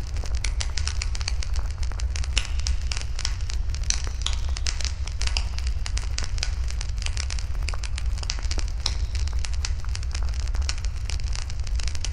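Wood fire burning in a fire pit, with dense irregular crackling and popping over a steady low rumble.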